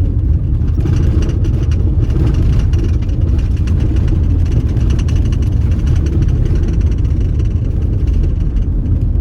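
Car interior road noise on a gravel road: a steady low rumble of tyres and engine, with a dense crackle of gravel under the tyres that stops just before the end.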